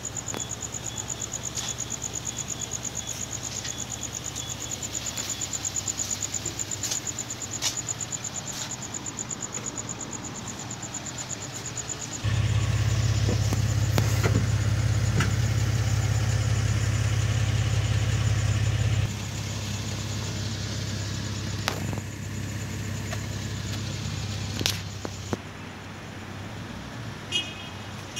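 A car engine idling with a steady low hum, much louder for several seconds around the middle. Scattered clicks sound over it, and for the first twelve seconds there is a fast, high pulsing tone.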